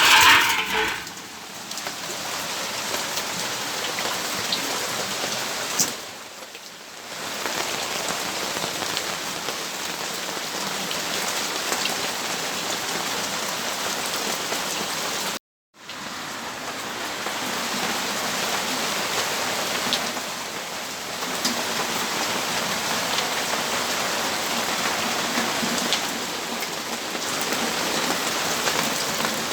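Steady rain falling on surfaces, heard from a balcony. A brief louder noise comes in the first second, the rain dips in level around six seconds in, and the sound cuts out for a split second about halfway through.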